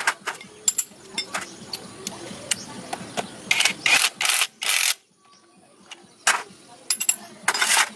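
Irregular mechanical clicking and knocking, with several short hissing bursts in the middle and near the end, like hand-tool work on the vehicle.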